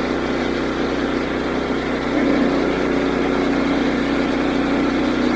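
Woodland Mills HM122 band sawmill's 9.5 hp gasoline engine running steadily, driving the band blade through a walnut log during a slabbing pass. The note gets a little louder about two seconds in.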